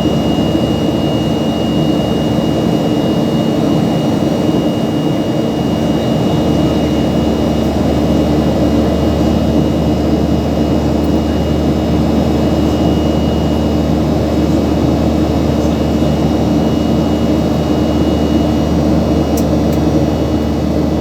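Steady engine drone with several constant humming tones and a thin high whine over it, unchanging in level.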